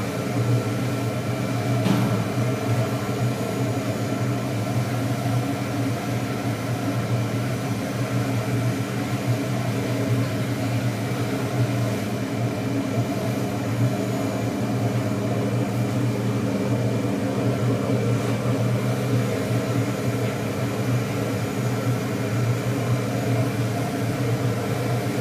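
Biomass gasifier furnace equipment running: a steady, even mechanical drone with a strong low hum. A single faint click sounds about two seconds in.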